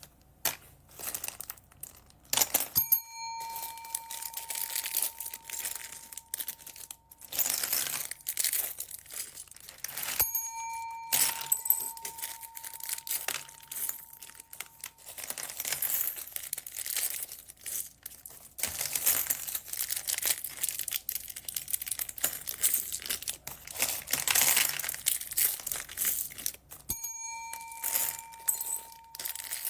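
Plastic bags crinkling and rustling as bead packets are handled. A bright bell-like ding rings out three times, each ringing on for a few seconds.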